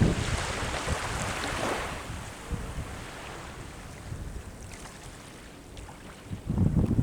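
Sea waves washing on the shore, one wash fading away over the first two seconds, with wind buffeting the microphone in low rumbling gusts near the end.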